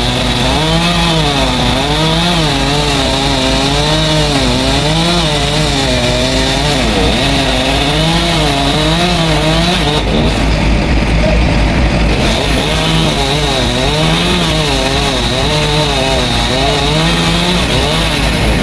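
Chainsaw cutting wood under load, its engine pitch rising and falling over and over as the chain bites into the trunk and picks up again. About ten seconds in, it drops lower and duller for about two seconds before picking up again.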